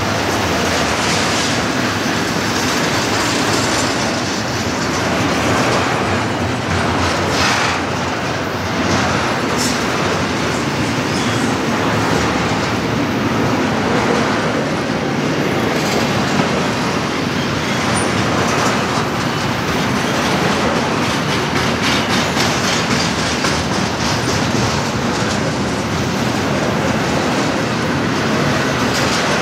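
Double-stack intermodal freight train passing: a steady rumble of steel wheels rolling on the rails, with a clickety-clack of the wheelsets going over rail joints.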